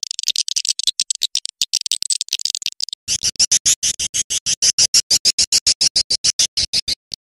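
Swiftlet calling-sound lure track of recorded swiftlet calls. It starts with a dense high twittering for about three seconds, then becomes a fast train of sharp, high chirps at about eight a second.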